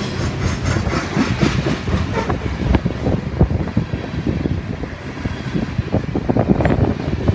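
Freight train of open-top coal cars rolling past at speed: a steady rumble of steel wheels on rail, with frequent irregular knocks and clicks as the wheels cross rail joints.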